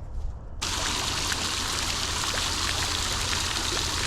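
Steady rush of running water that starts abruptly about half a second in.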